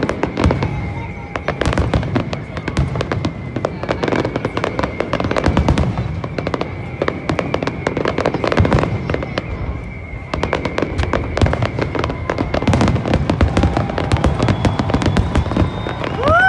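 Fireworks going off in a rapid, continuous crackle of many sharp bangs a second, with a steady high tone running underneath.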